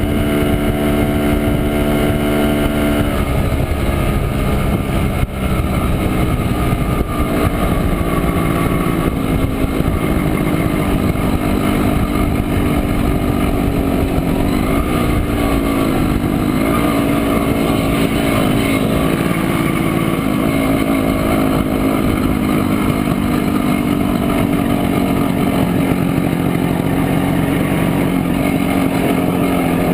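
1967 Montesa Impala Comando 175 cc's two-stroke single-cylinder engine running steadily under way. The engine note drops about three seconds in, then dips and climbs again near the middle.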